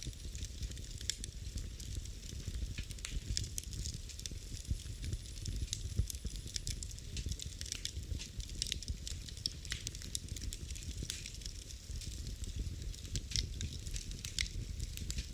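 Wood fire burning in a fireplace, with a steady low rumble of the flames and frequent sharp, irregular crackles and pops.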